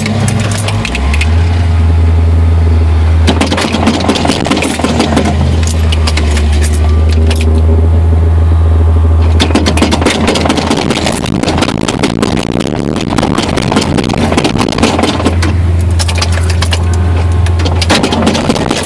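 Ford 302 V8 cold-starting in deep cold: it catches about a second in and runs unevenly on the choke, its note wavering and weakening as it struggles to keep going, while the gas pedal is pumped to keep it alive.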